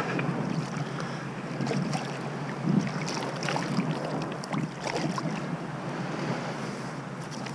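Sea water sloshing, with wind on the microphone and scattered small clicks and knocks.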